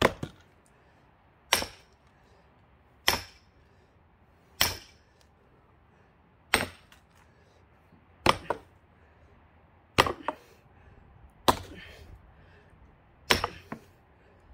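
Axe blows on a pine log being split for firewood. There are nine sharp wooden knocks about every one and a half to two seconds, several with a quick second knock as the blade bites or rebounds.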